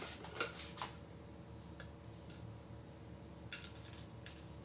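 A few sharp clicks and short rustling scrapes of kitchen containers and utensils being handled, the loudest about three and a half seconds in.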